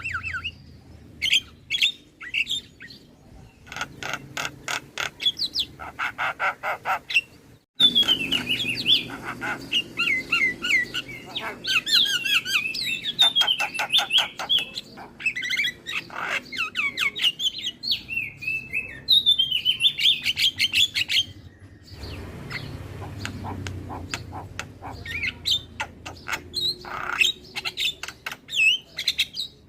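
Javan myna singing a varied, loud chatter of squeaky chirps, whistles and fast clicking rattles. The sound drops out for a moment about eight seconds in, then carries on.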